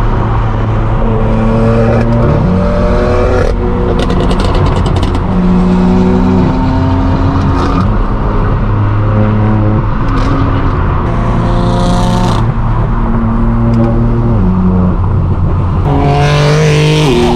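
Straight-piped BMW M4 F82's twin-turbo inline-six running loud under way, its pitch holding and then stepping up or down several times with gear changes. A burst of crackles from the exhaust comes about four seconds in.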